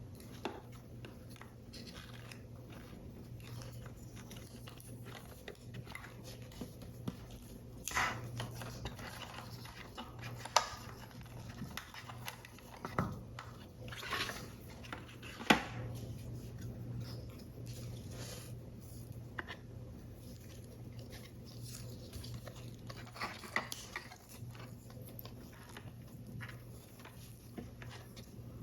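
Paper and card being handled while a paper model is assembled: soft rustles and scattered small clicks and taps, with two sharper ticks about ten and fifteen seconds in, over a faint steady low hum.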